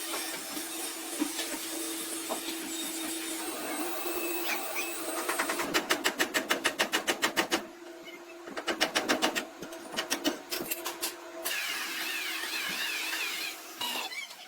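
Rapid, evenly spaced hammer strikes on car body metal, about eight a second, in two runs with a few single blows after, over a steady workshop hum.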